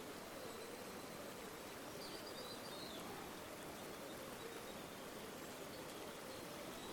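River water flowing steadily, an even rushing without breaks.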